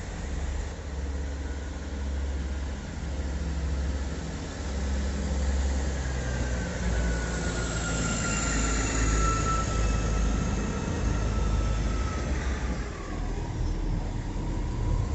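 Diesel train engines running with a steady low throb, joined about six seconds in by a high whine that slowly falls in pitch over several seconds before fading.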